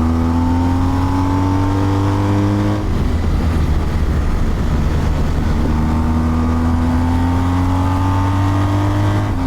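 Motorcycle engine heard on the move, its revs climbing, then backing off about three seconds in, leaving mostly wind and road noise. The revs build again and there is a quick drop in pitch near the end, like an upshift.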